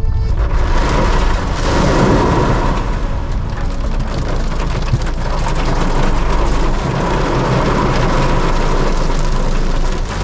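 Heavy waterfall water pouring down onto a car driving beneath it, a dense steady rush of water hitting the bodywork that starts suddenly, over a low rumble.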